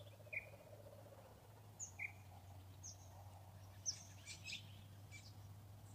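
Faint, scattered bird chirps: short high calls at irregular intervals over a steady low hum.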